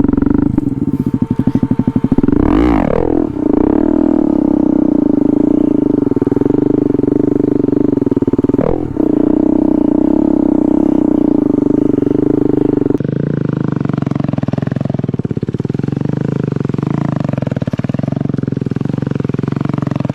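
KTM Duke 250 single-cylinder engine held at steady high revs through a wheelie. Its pitch briefly drops and climbs back about two and a half seconds in and again around nine seconds. From about thirteen seconds in the note changes and wavers up and down.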